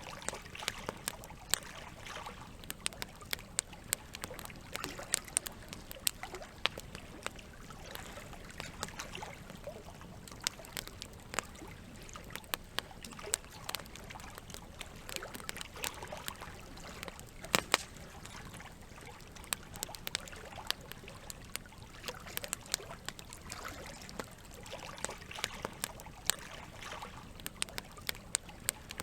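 Wood fire crackling, with frequent irregular sharp pops, over a steady trickle of running water. The loudest pop comes a little past halfway.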